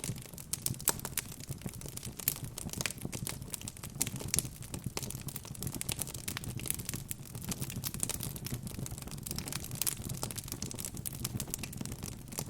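Wood fire crackling in a fireplace: a steady low rumble of the flames with irregular sharp pops and snaps from the burning logs.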